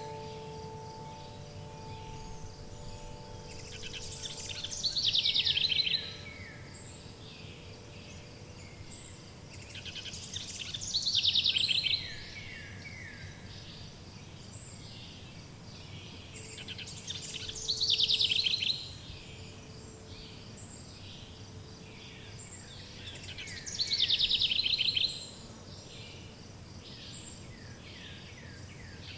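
A songbird's song phrase repeating about every six and a half seconds. Each phrase is a rapid run of high, descending notes that builds over about two seconds and stops abruptly. Faint wind chime tones ring in the first few seconds and again about two-thirds of the way through, over a steady high insect-like hiss.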